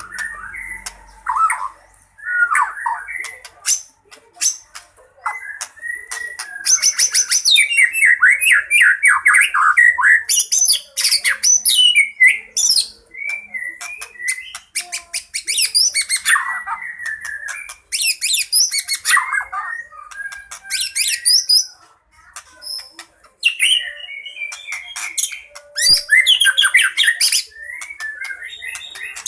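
White-rumped shama singing its agitated territorial "fighting" song: a fast, ever-changing run of whistled phrases, rapid trills, slurred glides and harsh chattering, packed with mimicked calls of other birds.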